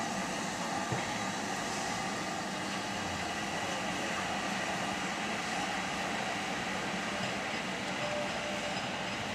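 Steady rushing noise of a train in motion, with no distinct beats, and a single small click about a second in.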